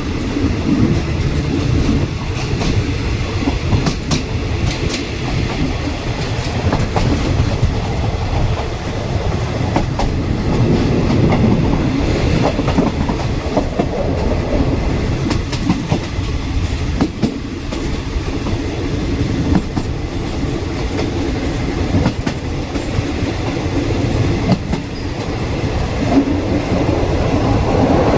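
Passenger train running along the track, heard from aboard: a steady rumble of wheels on rail with scattered clacks from the rail joints.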